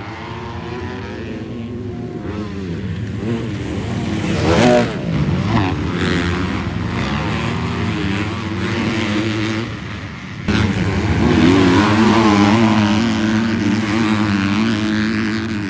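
250-class motocross bikes racing, engines revving up and down through the gears, with one bike passing close about four to five seconds in. After a sudden break past the middle, a bike's engine is held at high revs.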